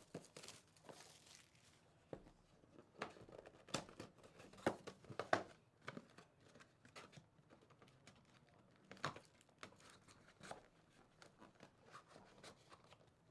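Faint plastic wrapping crinkling and tearing in irregular crackles as a trading-card hobby box and its packs are opened, busiest a few seconds in and again near the middle.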